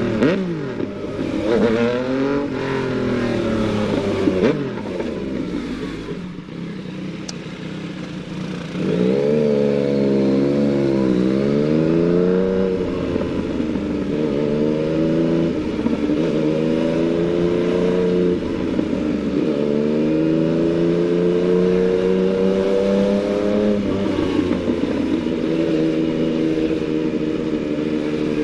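Yamaha MT-09 motorcycle's inline three-cylinder engine under way. The revs rise and fall a couple of times, then it runs quietly at low revs. From about nine seconds in it accelerates through several gears, the pitch climbing and then dropping sharply at each upshift.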